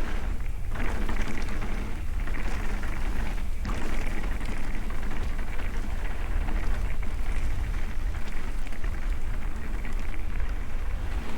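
Mountain bike riding fast down a bumpy dirt trail: continuous tyre and trail noise with a heavy low rumble of wind on the microphone, easing briefly twice in the first few seconds.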